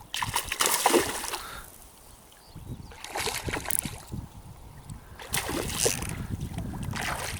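Water splashing and sloshing beside a kayak in three short bursts as a hooked pike is brought in to the boat.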